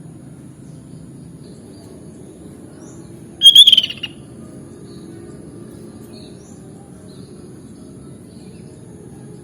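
Sooty-headed bulbul giving one loud, short burst of song about three and a half seconds in, with a few faint short chirps around it over a steady low background hum.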